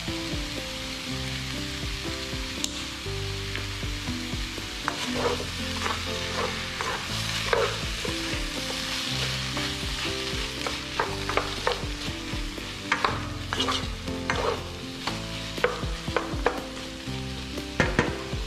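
Food frying in hot oil in a pan: a steady sizzle with frequent sharp clicks and pops, as from a spatula against the pan and spattering oil, growing busier about a third of the way in.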